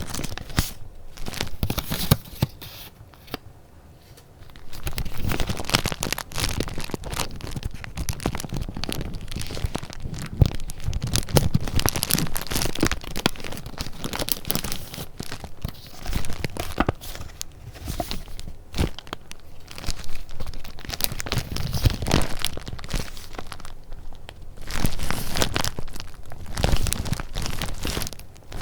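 Paper handled close to the microphone: sheets crinkling, rustling and crackling as they are moved and turned, with a brief quieter lull a few seconds in.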